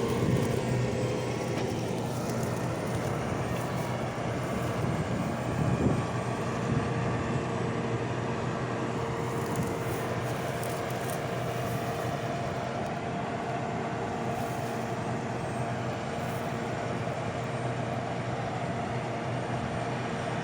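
Diesel engine of large farm harvest machinery running steadily, with a constant hum and a steady whine over the machine's noise. A brief louder knock comes about six seconds in.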